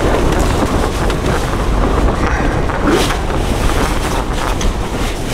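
Gale-force wind blasting the microphone and the tent, a loud steady rumble with gusts rising and falling.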